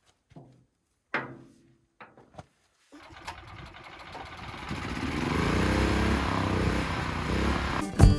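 A few short knocks, then a motor that runs up slowly over several seconds, its pitch rising as it gets louder. Music starts near the end.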